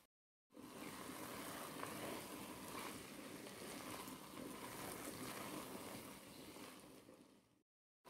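Ground beef, pea and carrot mixture faintly sizzling in a pot while a wooden spatula stirs through it. The sound starts about half a second in and cuts off shortly before the end.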